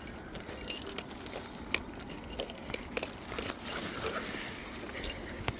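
Footsteps crunching along an outdoor path, giving irregular sharp clicks and crackles over a soft steady background hiss.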